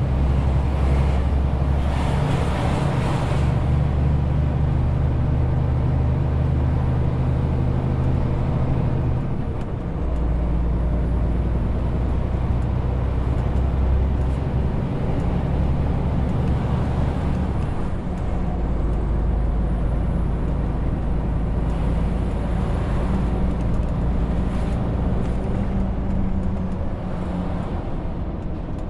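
Renault T520 truck's six-cylinder diesel engine running under load, hauling about 40 tonnes. Its engine note shifts pitch about a third of the way in and again past the middle, with brief hissing rushes near the start and about three quarters through.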